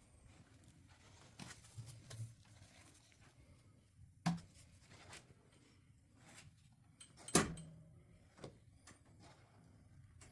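Scattered light clicks and taps of tools and filler being handled during fiberglass body-filler work, with two sharper knocks about four and seven and a half seconds in.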